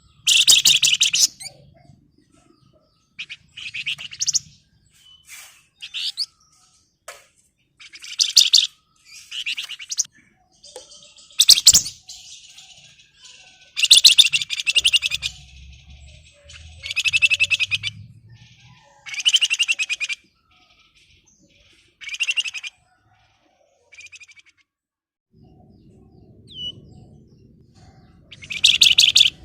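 Flamboyan songbird singing in dense, rapid rattling trills ('ngebren'), high-pitched bursts of about a second repeated every one to two seconds. A low rumble joins in near the end.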